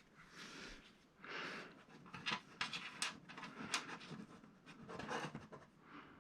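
Faint close-up handling sounds of gluing small parts: short rustling or breathy hisses and a few sharp clicks, the clicks clustered in the middle.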